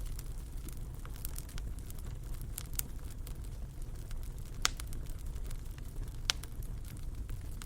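Wood fire crackling in a fireplace: a steady low rumble of flames with scattered sharp pops, two louder ones a little past the middle and about a second and a half later.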